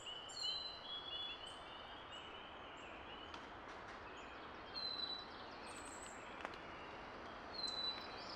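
Songbirds singing: a short high whistled phrase comes three times, about three seconds apart, with a fast trill from another bird in the first second, over a steady background hiss.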